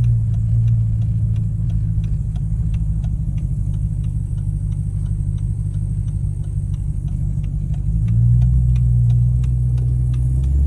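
Car engine and road noise heard from inside a moving car, a steady low hum, with a faint, fast, regular ticking running through it.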